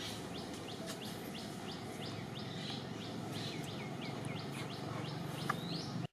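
A bird calling a steady series of short, falling chirps, about three a second, over outdoor ambience, with one sharp click near the end.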